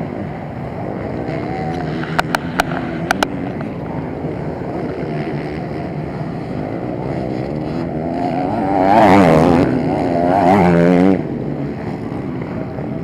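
Several motocross bike engines running on the track at once. From about eight seconds in, one bike revs hard close by, its pitch swinging up and down with the throttle, until it drops away sharply about three seconds later. A few sharp clicks come about two to three seconds in.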